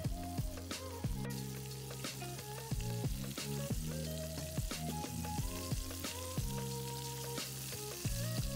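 Breaded chicken strips frying in hot oil in a stainless steel pan, a steady sizzle with frequent small crackles, under background music.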